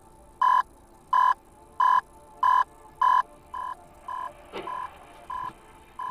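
Electronic beeper sounding a short steady tone about one and a half times a second: five loud beeps, then softer ones from about three and a half seconds on. A short knock comes near the middle.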